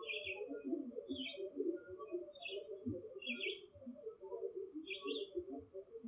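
Birds giving five short clusters of high chirps over a continuous, busy low-pitched chatter.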